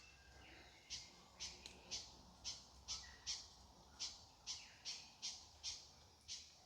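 Faint, steady series of short, sharp bird calls, about two a second.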